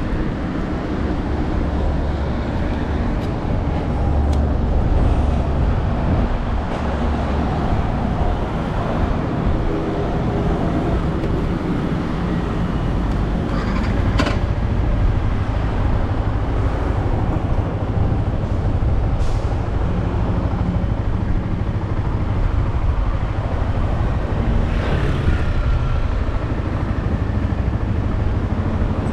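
Yamaha R15M's single-cylinder engine running steadily through its stock exhaust, with a dense low rumble.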